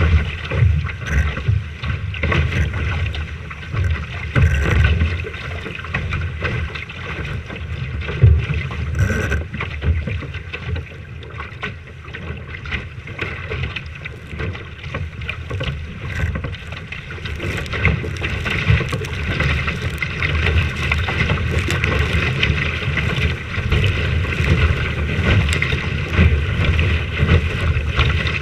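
Wind buffeting the microphone in uneven gusts over a steady rushing hiss of water, aboard a sailing boat on a windy day.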